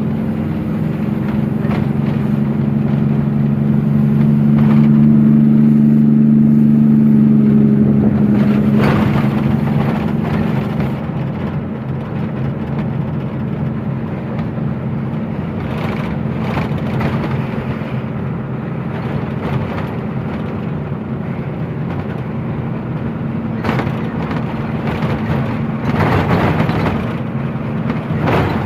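Truck engine running on the move with road noise. The engine hum swells during the first several seconds, then eases off. A few short knocks or rattles come through later.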